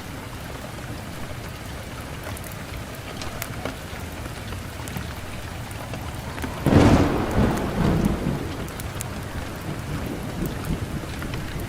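Wood fire burning in a fireplace: a steady hiss with small scattered crackles and pops. About seven seconds in, a louder low rumbling burst lasts a second or two, then fades back into the crackle.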